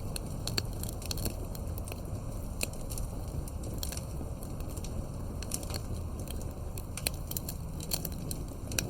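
Campfire crackling: a steady low hiss of burning wood with frequent irregular sharp pops and snaps.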